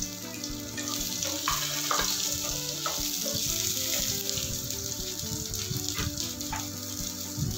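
Chunks of onion sizzling steadily as they fry in mustard oil in a frying pan, with a few short scrapes of a wooden spatula against the pan.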